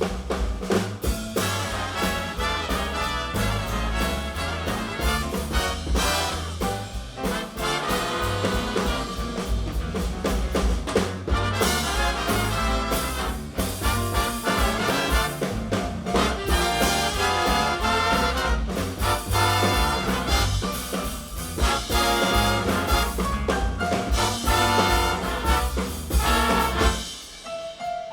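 Jazz big band playing a swing chart, with the trumpet and trombone sections over a walking rhythm section. The sound drops away briefly near the end.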